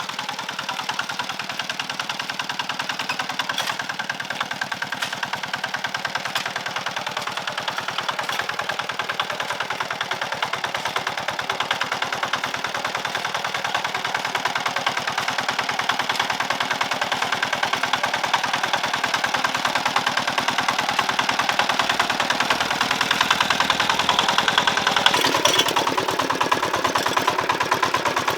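A small engine running steadily with a rapid, even putter. About 25 seconds in, its note changes and grows louder.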